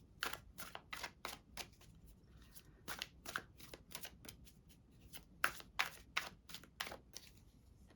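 A deck of tarot cards being shuffled by hand: a run of short, irregular card snaps and rustles that stops about seven seconds in.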